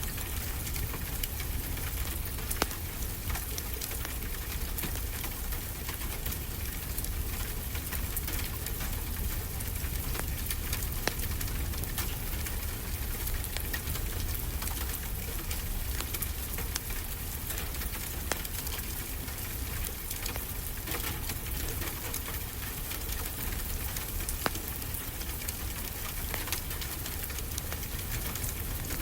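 Wood fire crackling with scattered sharp pops, a couple of them louder, over a steady low rush of ocean surf.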